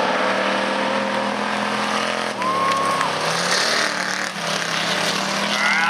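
Dirt-track stock race trucks running hard on the last lap, their engines a steady drone, with a short high whine about two and a half seconds in.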